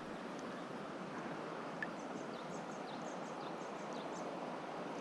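Mountain stream water flowing and rushing steadily over rocks, with a run of short high chirps about halfway through.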